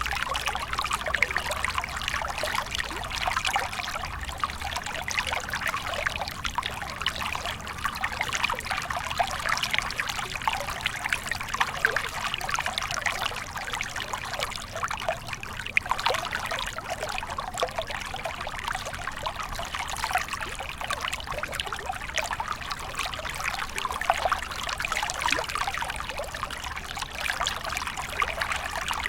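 Small stream flowing steadily, water trickling and splashing continuously over stones.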